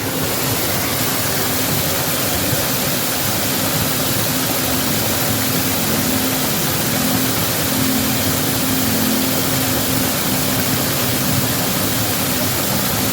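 Water gushing through and over a canal lock gate in a steady, loud rush, swollen by heavy rain.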